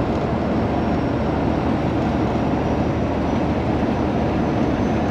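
Straight-piped Peterbilt 389 semi truck running steadily down the road, a low engine drone under a constant rush of road noise.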